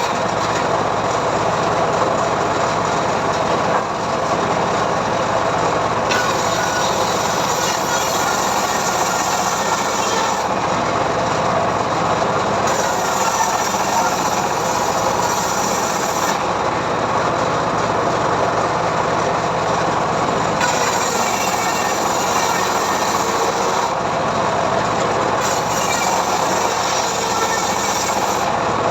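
Homemade sawmill running steadily while ripping a mahogany log lengthwise. Continuous machine and blade noise, with a high hiss that comes and goes every few seconds.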